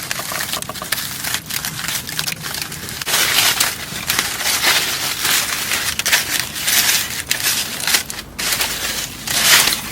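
Wrapping crinkling and crushing in irregular bursts as a baked sweet potato is unwrapped and opened.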